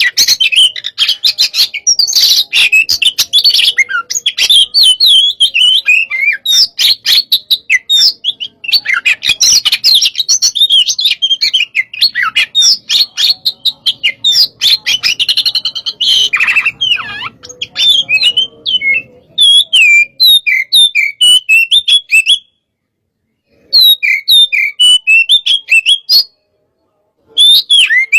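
Oriental magpie-robin (kacer) singing hard in the fast, aggressive 'hot' style: a rapid, unbroken stream of sharp chirps, clicks and whistled phrases. The song stops dead twice for about a second in the last third.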